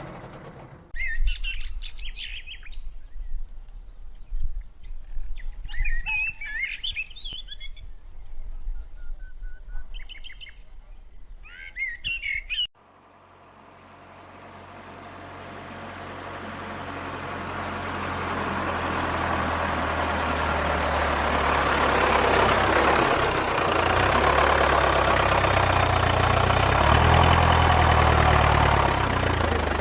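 Birds chirping for about twelve seconds, cut off abruptly, then an engine sound that fades in and grows steadily louder.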